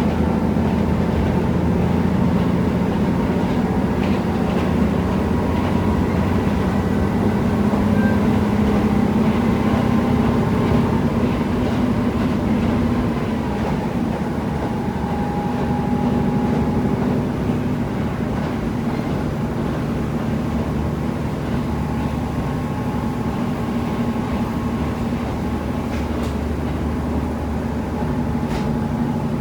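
KiHa 75 diesel railcar under way, heard from inside the car: the diesel engine running steadily under the wheel and track noise. The engine note and overall level drop about 13 seconds in, and a couple of short clicks come near the end.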